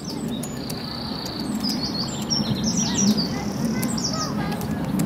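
Small birds chirping and calling, with many quick high chirps that sweep downward and one held high whistle about a second in, over a steady low background murmur.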